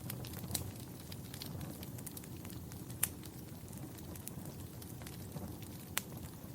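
Wood fire in a fireplace crackling: a steady low rumble of flames with scattered sharp pops, the loudest about 3 and 6 seconds in.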